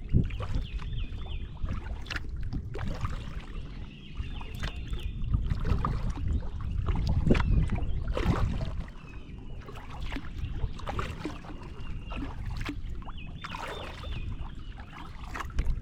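Kayak paddle strokes splashing in the water over a steady low rumble. A bird's short, high call repeats every couple of seconds.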